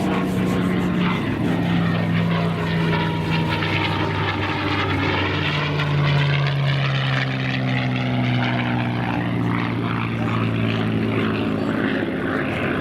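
A P-51 Mustang's Merlin V-12 engine and propeller running hard in flight. The engine note drops in pitch about five and a half seconds in, as when the aircraft passes by.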